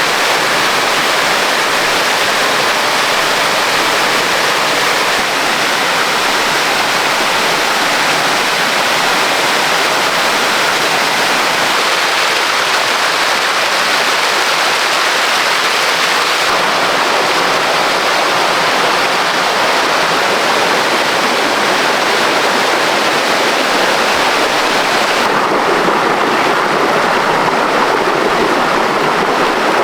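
Waterfall rushing steadily, turning a little duller about 25 seconds in.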